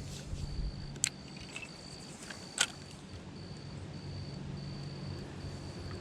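An insect's high, even chirps, each about half a second long, repeating steadily one after another, over a faint low hum. Two sharp knocks stand out, about one second and two and a half seconds in.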